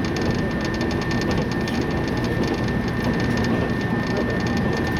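Cabin sound of a JR West 115-series electric train running at speed: a steady rumble of the traction motors and the wheels on the rails, with a thin steady high tone above it.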